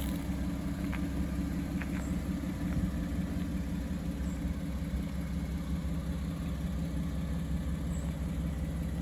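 1997 Toyota Supra Twin Turbo's 2JZ-GTE twin-turbo inline-six idling steadily.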